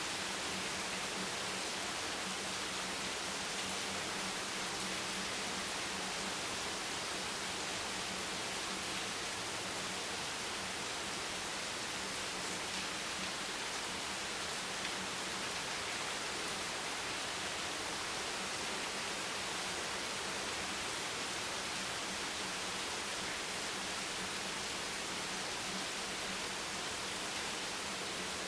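Steady rain, an even hiss with no separate drops standing out, with a faint low hum underneath.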